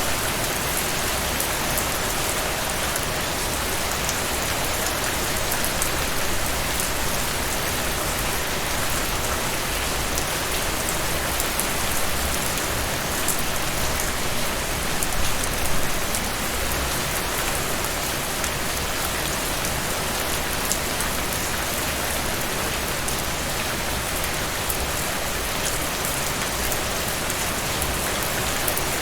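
Steady rain falling on a surface, an even hiss with scattered drop ticks, swelling slightly a couple of times.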